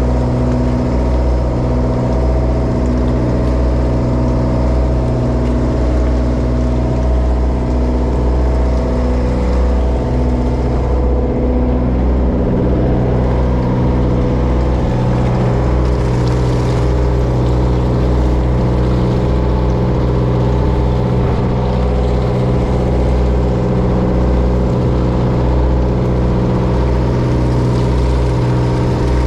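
Diesel engine of a Japanese bottom-trawl fishing boat running steadily with a deep, even drone, with a slight shift in its tone about ten seconds in.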